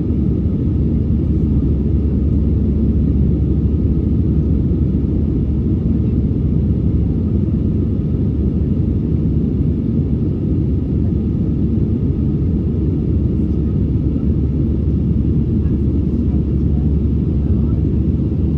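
Steady, even cabin rumble of an Airbus A320 in flight, heard from inside the cabin: jet engine and airflow noise, deep and unchanging.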